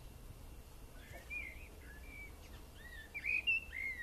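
Birds chirping: a run of short, high, arching chirps that start about a second in and come thicker and louder near the end.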